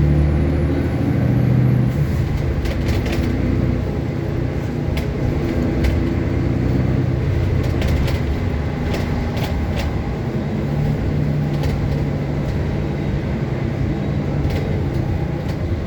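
City bus in motion: a steady engine drone with scattered clicks and rattles.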